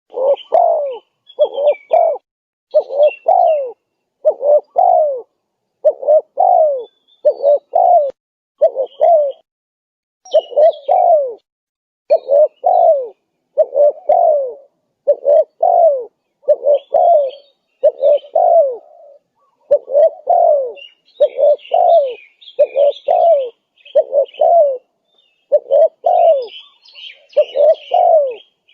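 Spotted dove (tekukur) cooing its song over and over, each phrase a pair of low, falling coos, about one phrase every one and a half seconds. Faint chirps of small birds sound behind it, busier near the end.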